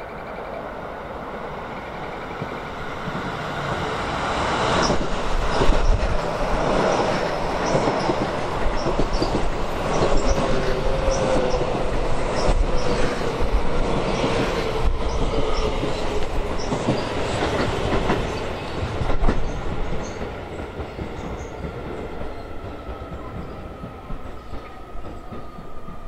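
Keio 7000 series electric train passing, its wheels clacking over rail joints. The sound builds over a few seconds, holds loud for about fifteen seconds, then fades, with a whine that slowly falls in pitch.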